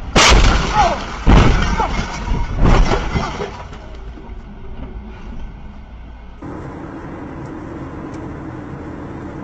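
Vehicle collision: a loud crash just after the start, then two more heavy bangs with crunching over the next three seconds, settling into steady background noise.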